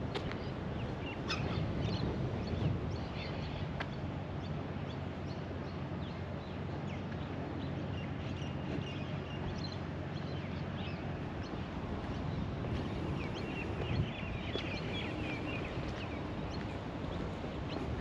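Birds calling with many short chirps over wind and outdoor noise, with a steady low hum, like a distant motor, from about three seconds in until past the middle.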